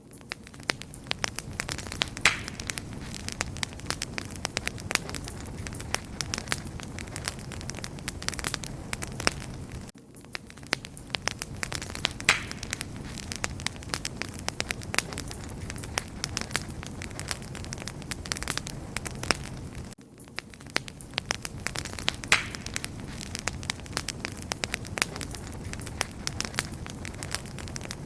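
Wood fire crackling steadily, with many sharp snaps and pops over a low rush of burning flame. The level dips briefly about every ten seconds.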